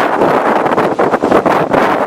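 Strong wind buffeting the microphone: a loud, steady rushing with a fluttering, gusty edge.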